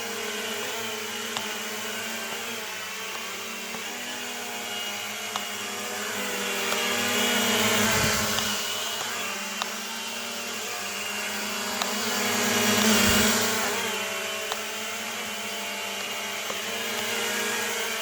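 Propel Flex 2.0 toy quadcopter's motors and propellers whining in flight, the pitch drifting up and down as it maneuvers. It swells louder twice, about halfway through and again a little later.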